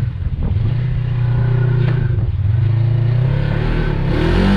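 A side-by-side UTV engine running steadily under load, with a few knocks from the machine. It revs up near the end.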